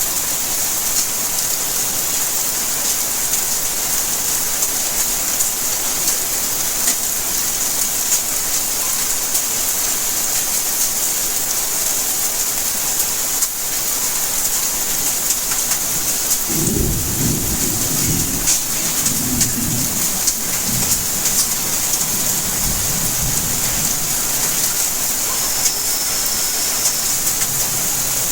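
Steady rainfall hissing throughout. About two-thirds of the way in, a low rolling rumble of thunder comes in and swells several times over some seven seconds before fading.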